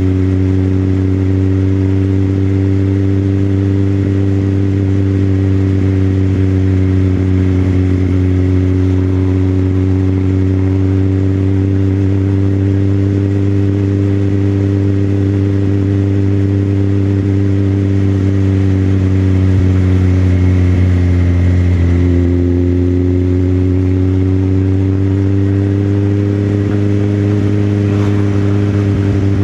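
Motorcycle engine running under way in a steady cruise, its pitch slowly sinking. About three-quarters of the way through the pitch jumps up and then climbs again.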